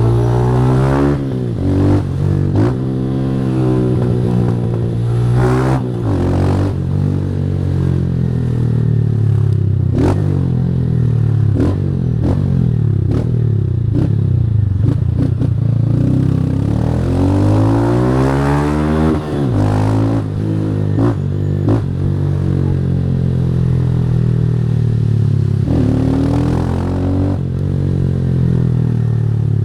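Single-cylinder Honda CG 160 motorcycle with a Fortuna Trioval aftermarket exhaust, revved hard through the gears. The engine note climbs and drops again and again, with brief breaks at each gear change.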